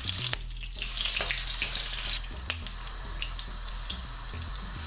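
Whole spices and bay leaves sizzling in a little hot oil in a pan: a loud hiss for about the first two seconds, then a fainter sizzle with scattered crackles and pops.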